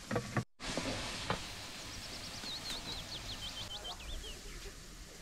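Spice paste sizzling steadily as it is sautéed in a hot wok with galangal and bay leaves, after a few sharp knocks at the start. A bird chirps a quick run of high notes in the middle.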